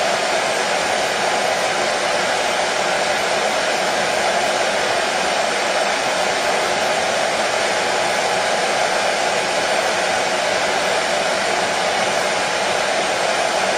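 Hair dryer running steadily: a constant, even rush of air with no change in pitch or level.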